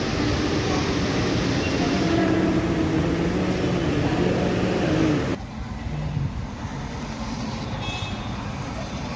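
Steady vehicle running noise with a low engine or motor hum. About five seconds in it cuts abruptly to a quieter rumble.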